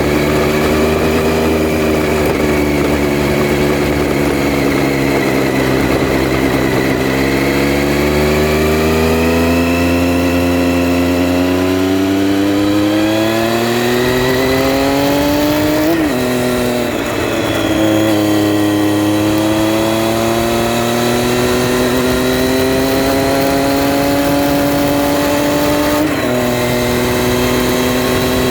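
2011 Triumph Street Triple R's 675 cc inline-three engine under way: running steadily at first, then revving up as the bike accelerates, with a sudden drop in pitch at an upshift about halfway through, climbing again and dropping slightly at another shift near the end.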